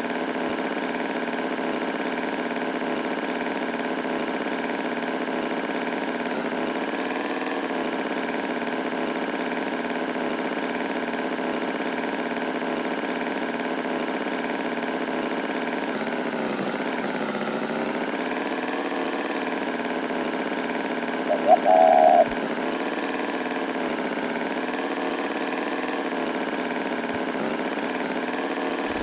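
Tractor engine idling steadily, its pitch wavering briefly around the middle. A short, loud, high-pitched sound cuts in about twenty-one seconds in.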